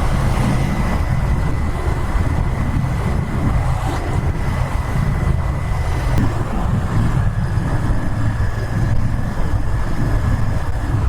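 Royal Enfield Interceptor 650's parallel-twin engine and exhaust running steadily on the move, a continuous low drone with road and wind noise over it.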